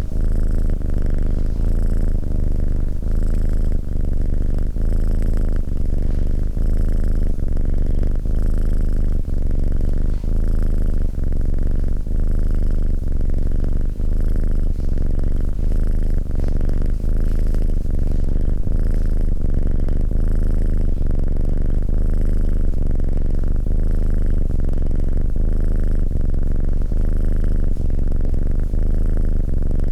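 A domestic cat purring steadily and continuously, close up, with the purr swelling and fading about once a second in time with its breathing.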